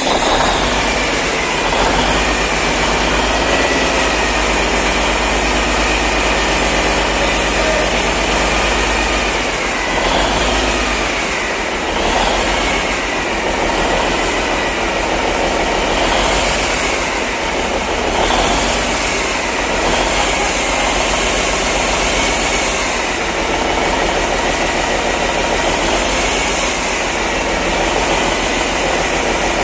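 Freshly overhauled Cummins NT855 inline-six diesel engine running steadily. About ten seconds in, the engine speed rises and falls several times, roughly every two seconds, before it settles again.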